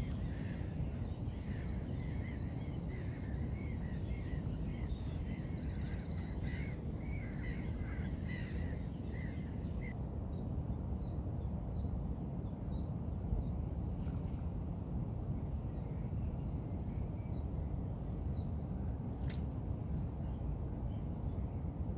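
Small birds singing and chirping over a steady low outdoor rumble; the birdsong dies away about halfway through, and a few faint clicks come near the end.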